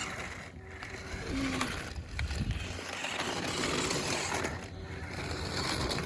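Remote-control rally car driving, its wheels rolling over the ground with a rough, even rushing noise that swells and drops several times as it speeds up and slows.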